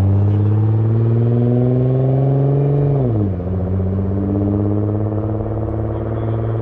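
A car engine pulling away under light throttle, its pitch slowly rising, then dropping sharply about three seconds in and running steady at a lower pitch.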